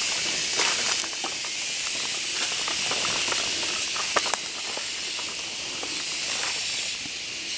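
Steady high-pitched hiss, with a few faint clicks or snaps scattered through it.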